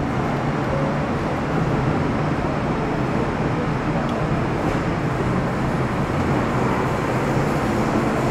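Running sound of an MTR Metro Cammell M-Train (CM-Stock) electric multiple unit with GEC GTO chopper traction, heard from inside the car between stations: a steady rumble of wheels and traction equipment with a low hum, growing slightly louder toward the end.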